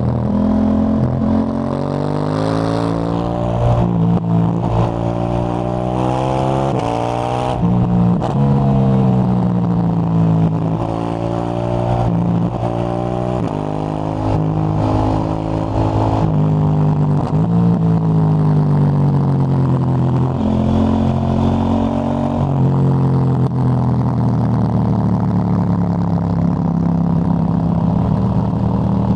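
KTM 890 Duke GP's parallel-twin engine through a Dominator HP8 slip-on exhaust with its dB-killer fitted, on the move. The revs climb and drop back sharply over and over as it shifts up through the gears, with stretches where the revs fall off as it slows.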